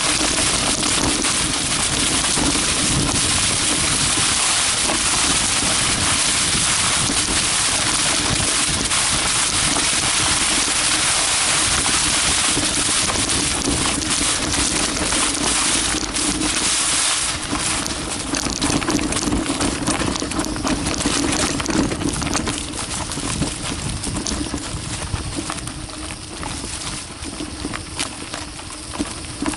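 Carraro Big 827 mountain bike riding down a dirt forest trail: a steady rush of tyre noise and wind on the microphone, with constant clicks and rattles from the bike over the rough ground. The noise eases a little over the last few seconds.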